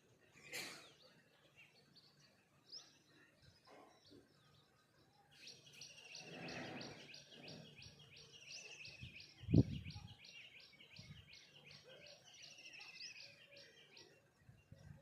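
Wild birds chirping, with one bird repeating a rapid series of high notes, about three or four a second, from about five seconds in until near the end. A single dull thump about halfway through is the loudest sound.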